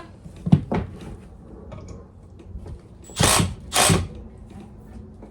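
Two sharp knocks, then two short noisy bursts of a power tool about half a second apart, during work on a wooden fridge base.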